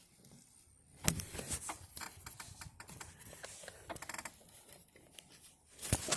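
Wheelbarrow being moved with the camera strapped to it: irregular knocks, rattles and gritty scraping, starting with a sharp knock about a second in, and another loud cluster of knocks near the end.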